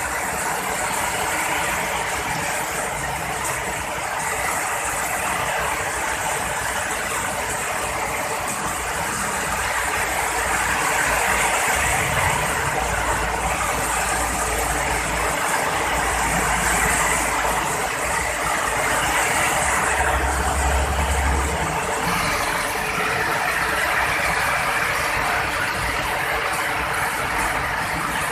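Heavy rain pouring steadily, with deep thunder rumbles about twelve seconds in and again around twenty seconds.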